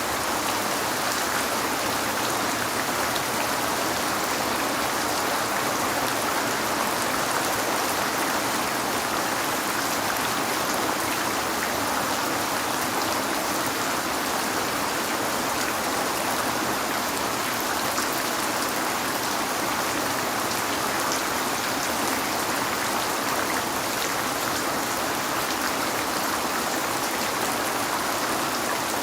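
Steady rain falling on a window, an even hiss with occasional single drops ticking.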